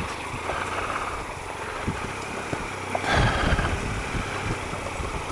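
Triumph Explorer XCa's 1215cc three-cylinder engine running at low revs as the motorcycle creeps up a slippery muddy track. It gets louder for about a second, three seconds in, then settles back.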